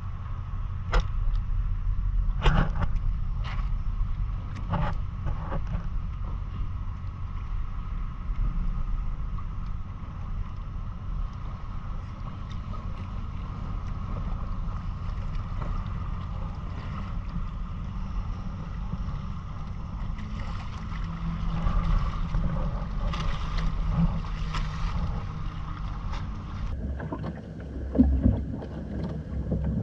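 A Hobie Island sailing kayak under way: wind rumbling on the microphone over water noise around the hull, with a faint steady hum. There are a few sharp knocks in the first six seconds, and a hissier stretch about three-quarters of the way through.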